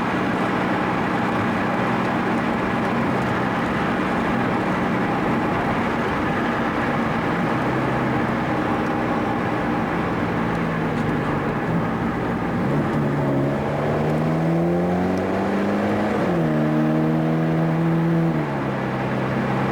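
Car engine with road noise heard from inside the cabin, cruising steadily at first. About two thirds of the way in it accelerates with rising pitch, drops at an upshift, climbs again and shifts once more near the end.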